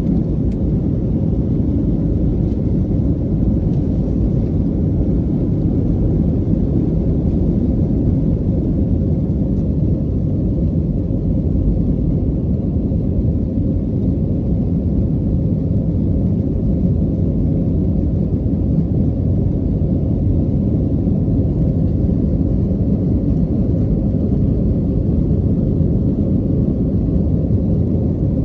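Steady low rumble of an Airbus airliner's cabin, the engines and the rushing airflow droning evenly, with a faint steady hum.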